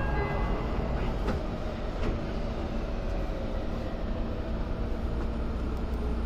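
Electric commuter train standing still, heard from inside near the cab: a steady rumbling hum with a few sharp clicks in the first two seconds, while a train on the next track draws away. A low steady tone sets in about three seconds in.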